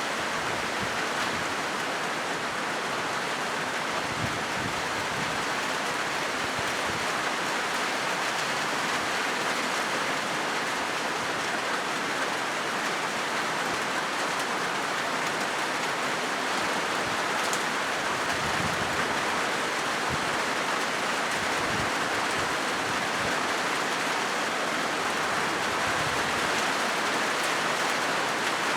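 Rain falling steadily on a corrugated zinc roof sheet: a dense, even patter of drops, with a few faint low thumps along the way.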